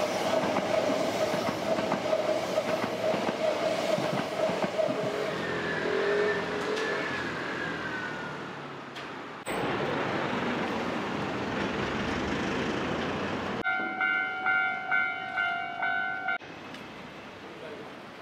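A train running past on the rails next to a level crossing, with a steady tone over the rumble and a falling squeal partway through. Near the end, a level-crossing warning bell rings in even strikes, about two a second, for a few seconds and stops abruptly.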